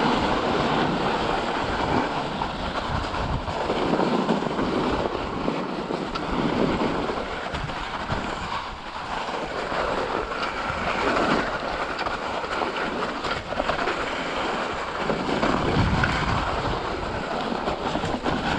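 Wind buffeting the microphone and tyre noise from a mountain bike riding fast down a rough trail, the rush swelling and easing with no steady tone.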